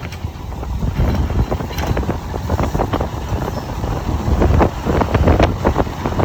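Wind buffeting the microphone over the low, steady running of a Mack side-loader garbage truck's diesel engine.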